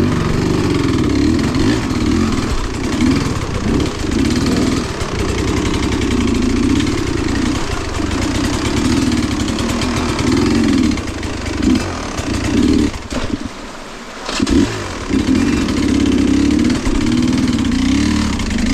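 Small off-road engine running under riding load, its pitch rising and falling as the throttle opens and closes. The throttle drops off briefly about thirteen seconds in, then the engine picks up again.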